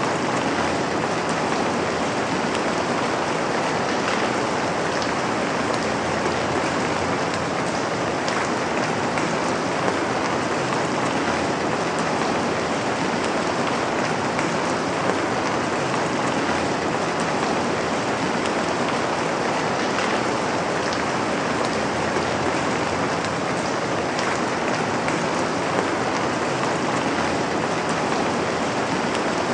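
Steady rain falling on a surface, a dense even hiss with scattered drop ticks that holds without change.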